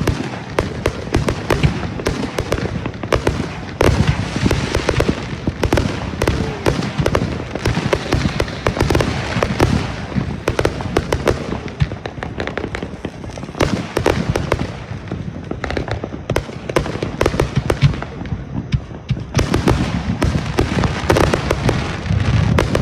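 Fireworks going off in rapid succession: dense, overlapping bangs and crackles, many every second, with no let-up.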